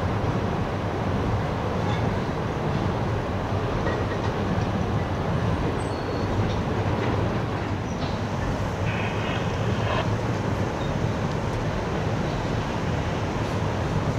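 A freight train of tank cars rolling steadily across a steel trestle bridge: a continuous low rumble of wheels on rail.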